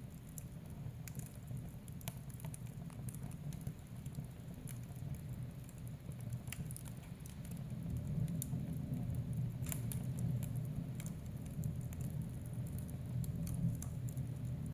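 Wood fire burning in a fireplace: irregular crackles and sharp pops of burning logs over a low, steady rumble of the flames, which grows a little louder about halfway through.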